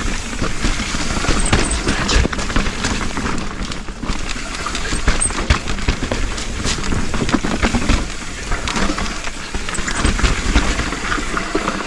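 Trek Slash 8 mountain bike descending a wet trail: continuous tyre and drivetrain rattle with frequent sharp knocks as it runs over bumps.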